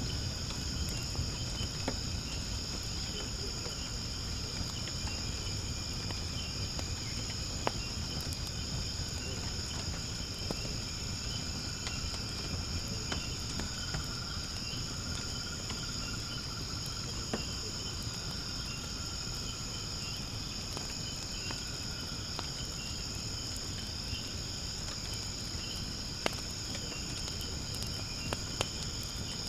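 Wood fire burning in a fire pit, with a low rumble and a few sharp pops, under a steady high-pitched chorus of insects.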